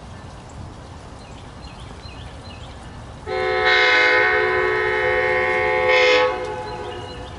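Train horn sounding one long blast of about three seconds, several notes at once, starting about three seconds in and then cutting off.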